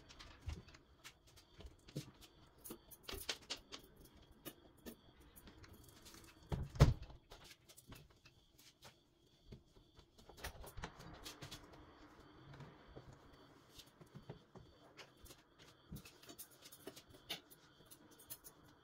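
Scattered light clicks and knocks of household items being handled and put away during kitchen cleaning, with one louder thump about seven seconds in.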